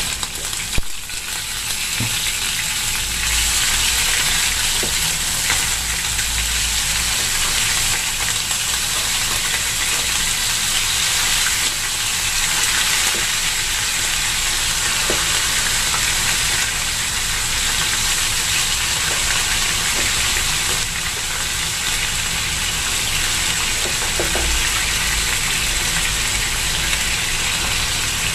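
Chicken wings sizzling as they fry in hot oil in a frying pan as more pieces are added. The sizzle grows louder over the first few seconds and then holds steady, with a few light knocks now and then.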